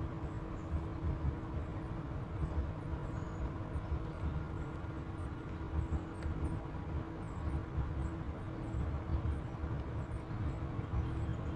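Caterpillar 416F2 backhoe loader's diesel engine running steadily: a constant low rumble with a steady hum.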